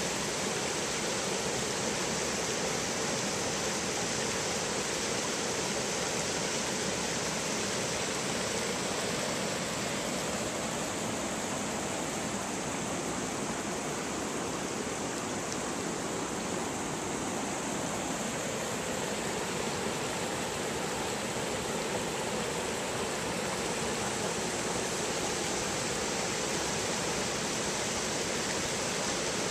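Steady rush of water pouring over short river falls, an even, unbroken roar.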